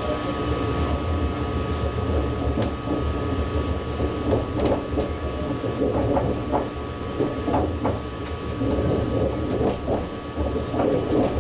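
An ICE high-speed train running, heard from the driver's cab: a steady low rumble with a constant high whine. Irregular clatter and clicks from the wheels on the track come in around the middle.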